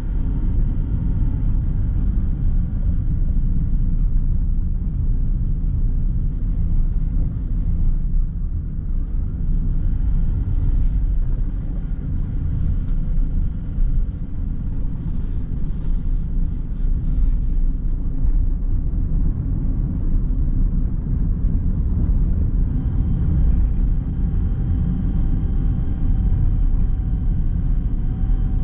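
Car driving at steady speed: continuous low rumble of tyres on the road and the engine. A faint steady whine joins in about 23 seconds in.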